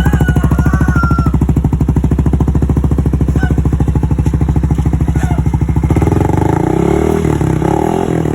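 Yamaha NMAX 155's single-cylinder engine idling through an aftermarket Daeng 'standard racing' exhaust, with a steady, even pulse; about six seconds in the throttle is opened and the exhaust note rises.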